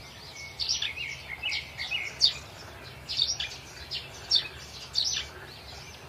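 Small birds chirping: quick, high chirps, several a second and irregular, over a faint steady hiss.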